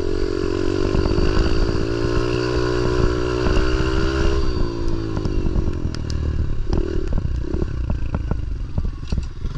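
Pit bike's small single-cylinder engine running under steady throttle, its revs falling away about four and a half seconds in. After that the engine runs low while sharp clattering and scraping rattle on, just before the rider complains of falling on the lefts.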